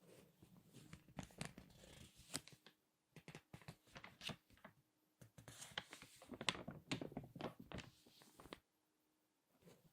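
Glossy magazine pages crinkling and crackling as they are squeezed and turned, in three bouts of dense crackles with short silent pauses between them, the last bout the loudest.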